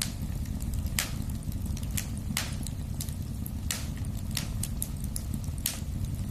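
Wood fire in a fireplace crackling: a steady low rumble of burning with four sharp pops and many small ticks between them.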